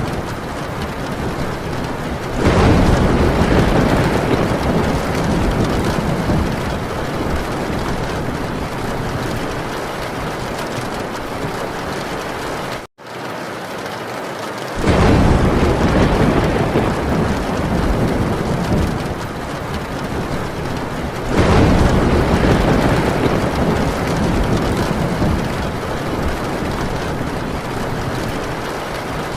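Heavy rain drumming steadily on a tin roof, with thunder rumbling in three loud swells, about two seconds in, a little past halfway, and about two-thirds through. Near the middle the sound cuts out for an instant.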